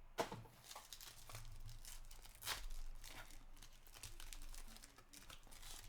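A trading card pack's wrapper being torn open and crinkled, in short sharp crackles and rustles. The loudest come about a quarter second in and about two and a half seconds in.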